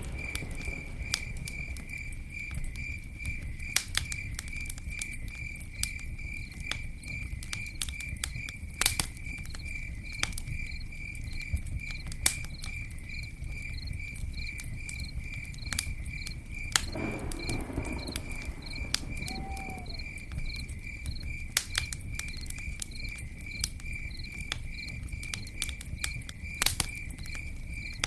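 Campfire crackling with scattered sharp pops, over crickets chirping in a steady, even pulse, about three chirps a second.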